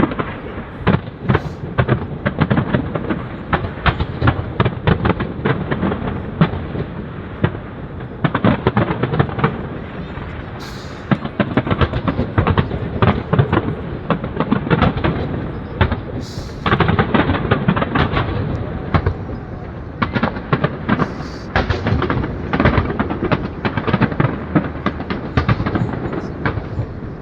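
Fireworks display going off continuously: rapid, overlapping bangs and crackles with a low rumbling boom underneath.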